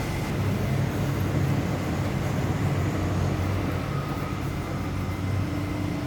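Steady low vehicle engine rumble with a constant hum and no distinct knocks or clicks.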